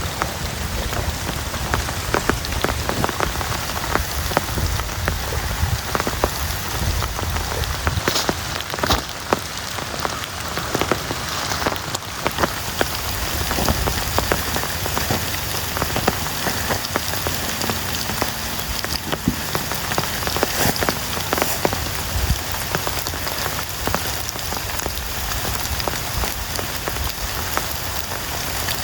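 Heavy rain falling steadily, with many close individual raindrops striking sharply on top of the dense hiss of the downpour.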